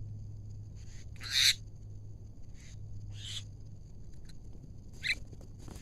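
Javan mynas (jalak kebo) giving short, harsh squawks, four calls a second or two apart, the loudest about a second and a half in. A low steady hum runs underneath.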